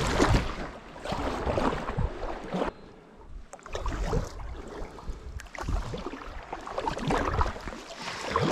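Kayak paddle strokes splashing and dripping in shallow creek water, coming in uneven bursts with a short lull about three seconds in.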